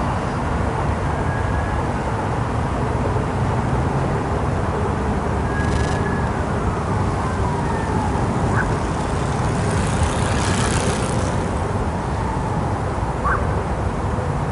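City street ambience: a steady rumble of road traffic, with a few faint short tones and a brief swell of hiss about two thirds of the way through.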